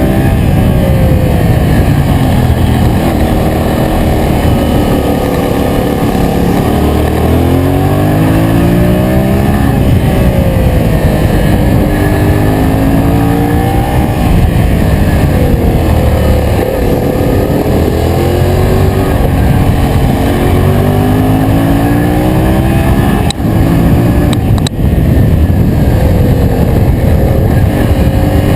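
Yamaha MT-07's parallel-twin engine running under way, the revs climbing and falling back again and again as the bike accelerates, changes gear and rolls off the throttle.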